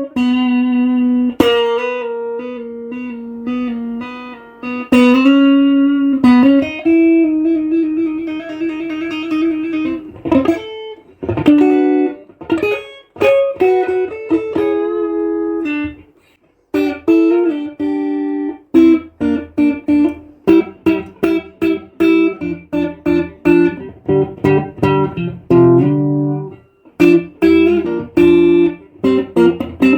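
Electric guitar playing a melodic line: long held notes with a trill in the first half, a short break about 16 seconds in, then quick picked single notes.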